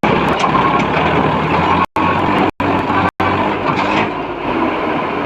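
Tractor diesel engine running steadily. The sound cuts out completely three times, briefly, in the middle.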